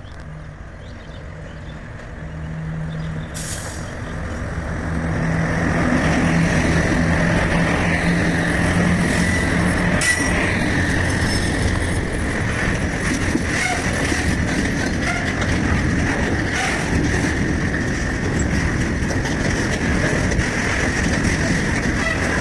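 Freight train approaching and running past, its rumble growing louder over the first six seconds and then holding steady, with a low hum that fades out about halfway through.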